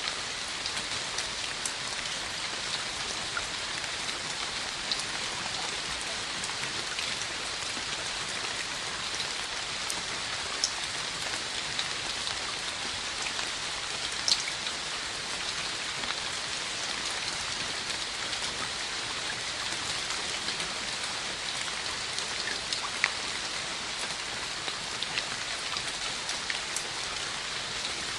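Steady rain falling on a surface, an even hiss with scattered individual drops ticking, a few sharper drop hits standing out.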